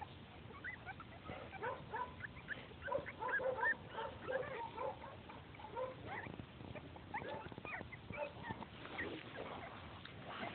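Three-week-old puppies whimpering and squeaking faintly: many short, high squeaks that bend in pitch, scattered throughout.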